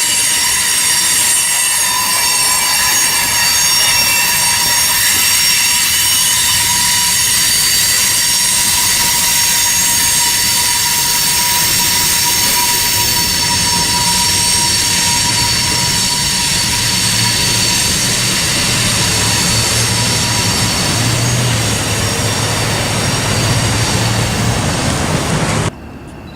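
Freight cars of a manifest train rolling through a curve, their wheels squealing in several steady high-pitched tones over the low rumble of the train. The sound cuts off suddenly near the end.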